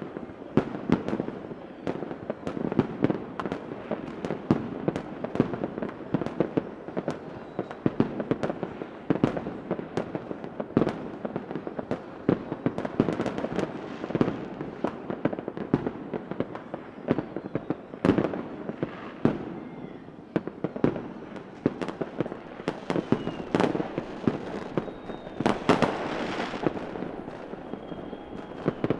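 Fireworks going off continuously: many sharp bangs at irregular intervals over a steady crackle, with a few faint rising whistles and a louder burst about 26 seconds in.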